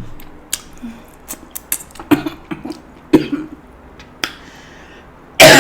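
Close-up eating sounds from steamed king crab: many sharp clicks and cracks of shell with wet mouth noises and a couple of short hums. A sudden loud cough comes near the end.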